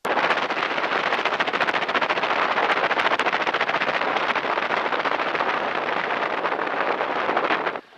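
Loud, steady cockpit noise of a T-6 Texan taxiing with the canopy open: the Pratt & Whitney R-1340 nine-cylinder radial engine's rapid firing mixed with propeller wash and wind on the microphone. It cuts in abruptly and falls away just before the end, like an intercom microphone opening and closing.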